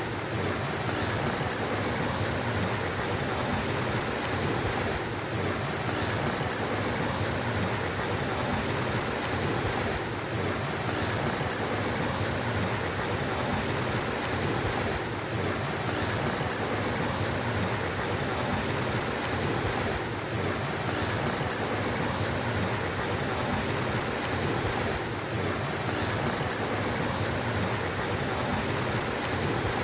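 Flowing water rushing steadily, a continuous even wash with no breaks.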